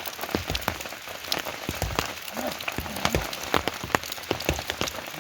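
Rain falling steadily, with many heavy single drops striking a hard surface close by, several a second, over a continuous hiss.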